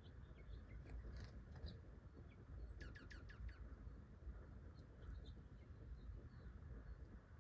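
Faint wild birdsong: scattered short, high chirps, with a quick run of about five falling chirps about three seconds in, over a low steady rumble.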